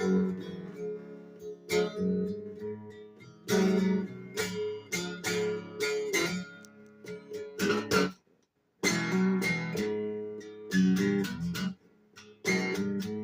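Acoustic guitar strummed in a blues instrumental break between sung verses, with the strokes coming in uneven groups. The sound cuts out abruptly for about half a second around eight seconds in, then the strumming resumes.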